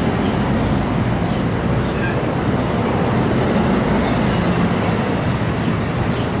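Train running through the station, a loud steady rumble of wheels on the rails with a few faint clicks.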